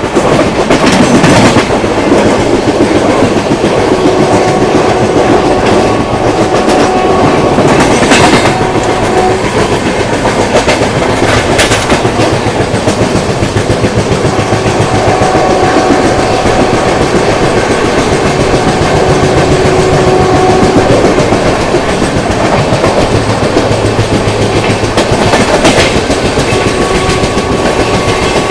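Passenger train running at speed: a steady rushing rumble, with wheels clicking over rail joints. A faint steady whine comes and goes a few times.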